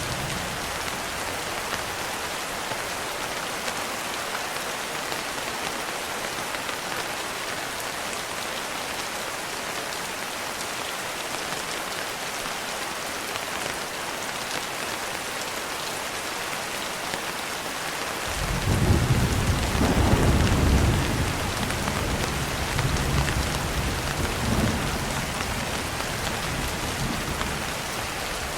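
Steady rain with a rumble of thunder about two-thirds of the way through: the thunder swells suddenly, peaks for a few seconds, then rolls on more quietly and fades.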